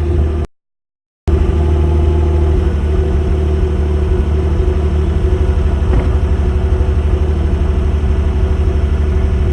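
Hyundai Genesis Coupe exhaust idling with a steady low rumble, broken by a short gap of silence about half a second in.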